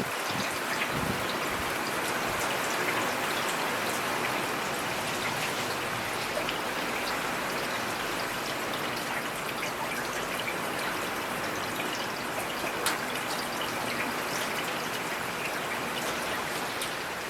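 Steady rainfall: an even hiss of rain with scattered individual drops ticking, one sharper drop hit about three-quarters of the way through.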